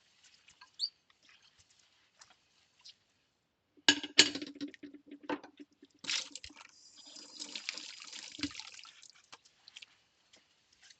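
Plates being washed by hand: soft sponge squishes and small clinks, then about four seconds in a ceramic plate knocks and rings against the dishes, followed by a few seconds of running water and splashing.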